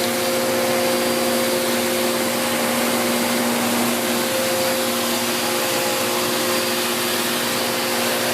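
Bissell Cleanview Plus (76P4-E) 1900 W bagless upright vacuum cleaner running steadily: an even rush of airflow with a constant motor hum.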